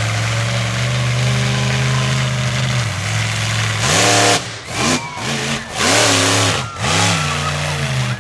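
Monster truck engine running steadily, then revved hard several times in quick succession in the second half, each rev rising and falling in pitch.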